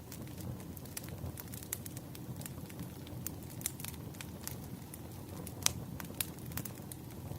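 Campfire burning: a steady low rush of flames with irregular sharp crackles and pops from the wood, one pop clearly louder about three-quarters of the way through.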